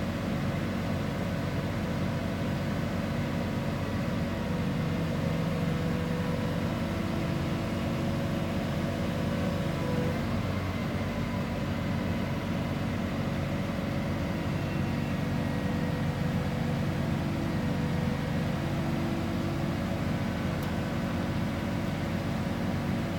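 Engine of heavy tree-dismantling machinery running at a steady speed, a continuous low drone.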